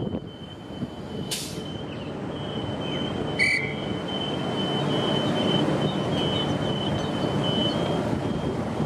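Queensland Rail electric commuter train running along the platform, its rumble building steadily, with a thin high whine that comes and goes. A short hiss sounds about a second in and a brief high beep a few seconds later.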